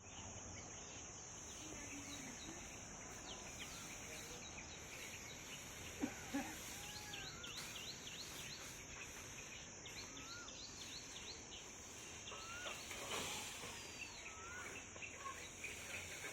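Rural outdoor ambience: a steady high-pitched insect drone with many birds chirping and whistling throughout. Two short knocks stand out about six seconds in.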